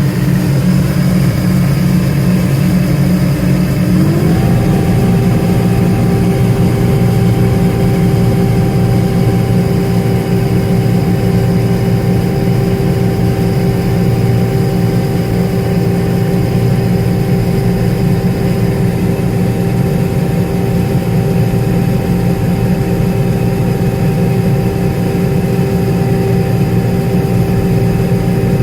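Diesel engine of a farm machine running steadily, picking up speed about four seconds in and then holding at the higher speed.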